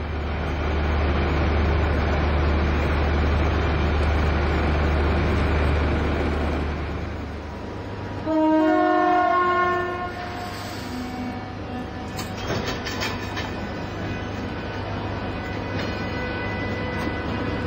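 O gauge model railway train running, with a steady low hum for the first seven seconds or so. A train horn then sounds for about two seconds, the loudest moment. Quieter running follows, with scattered clicks like wheels over rail joints.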